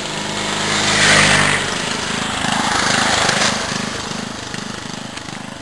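Small off-road vehicle engines running hard during a race, one passing close and loudest a little over a second in, then a pulsing engine sound that fades away.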